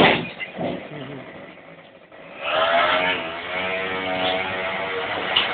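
Quad bike engine, quiet about two seconds in, then revving up and running steadily.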